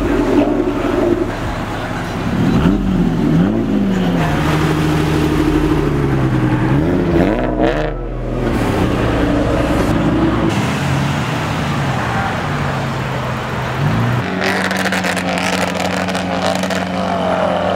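Modified sports cars revving and pulling away one after another: a Ford Mustang, a Nissan 350Z, then a Lamborghini Aventador. The engine pitch rises and falls with each rev, and settles into a steadier tone near the end.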